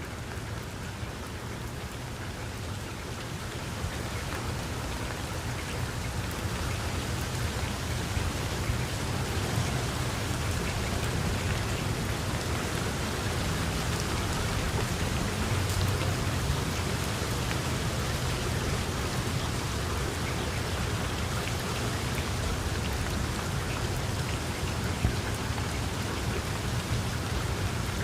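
Heavy rain pouring steadily, with a low rumble underneath; it swells a little over the first several seconds, then holds steady.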